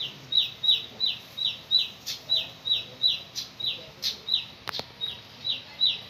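A small bird calling over and over, each call a short high note sliding downward, about three calls a second.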